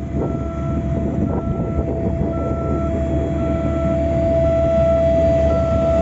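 Road-paving machinery running with a steady engine rumble and a whine, while a reversing alarm beeps about once a second.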